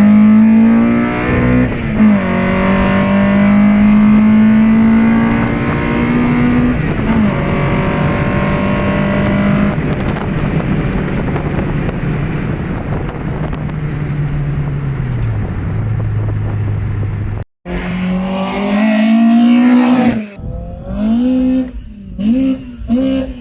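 VW ABF 2.0 16-valve four-cylinder on individual throttle bodies, accelerating hard through the gears with the note climbing and dropping at each shift, then easing off. After two abrupt cuts it is revved in several short blips.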